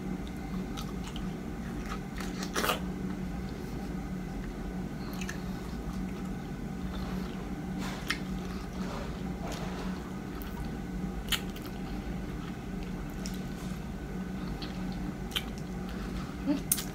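Close-up eating sounds of a person biting into and chewing small soft fruit: wet squishing and chewing, with a few sharp mouth clicks and smacks, over a steady low hum.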